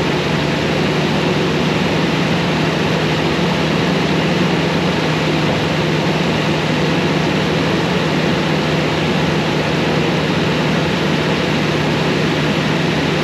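Toyota Tundra engine running steadily just after start-up, with a freshly installed secondary air injection system.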